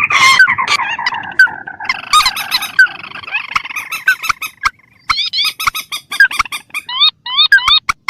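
Played-back lure recording of rail calls (swamphens and crakes): a dense jumble of overlapping squawks and chatter, then from about five seconds in a quick series of short rising calls repeated several times a second.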